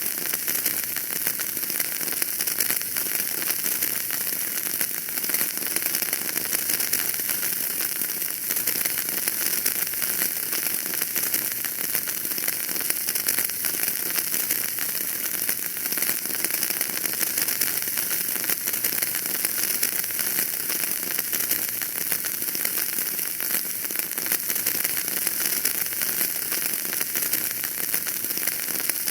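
Wood fire burning in a fireplace, crackling steadily: a dense run of small crackles over a constant hiss.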